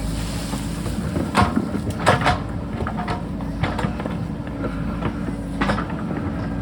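JCB backhoe loader's diesel engine running steadily under load, with several sharp clanks as the bucket works the rock, the loudest a pair about two seconds in.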